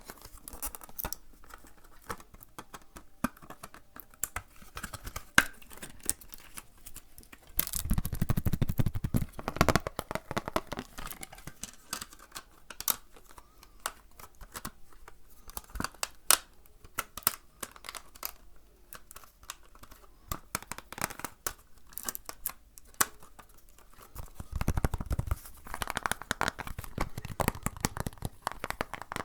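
Close-miked ASMR handling sounds: dense, irregular crackling and clicking as objects are handled and rubbed, with two louder, fuller stretches, about a third of the way in and near the end.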